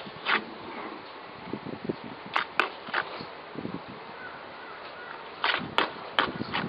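Several sharp knocks and clicks at irregular intervals, a cluster near the start, a pair about two and a half seconds in, and a quicker run near the end, over a steady background hiss.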